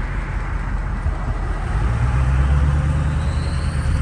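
6.0 Powerstroke turbo-diesel V8 with a straight-piped exhaust pulling away under throttle. The low engine note gets louder about two seconds in, and a rising turbo whistle comes in near the end as the turbo spools up.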